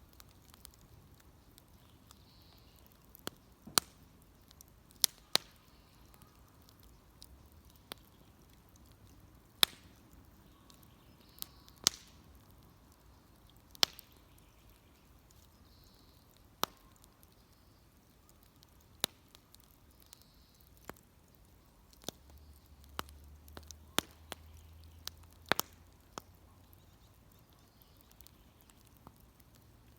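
Wood bonfire crackling: sharp, irregular pops and snaps, some in quick pairs, every second or few over a low steady hiss.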